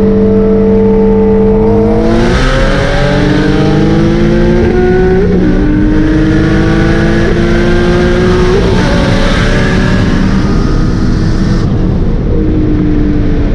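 Single-turbo Nissan 350Z's 3.5-litre V6 holding a steady note, then pulling hard with a rising pitch and a rush of noise on top, the pitch dropping briefly at each gear change several times; it eases off near the end.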